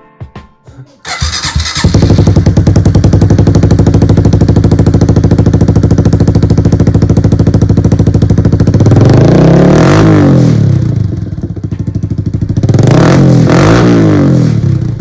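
A 2023 Honda CRF110 pit bike's single-cylinder four-stroke engine, fitted with a BBR D3 aftermarket exhaust, starts about a second in and idles steadily. It is then revved twice, the pitch rising and falling each time.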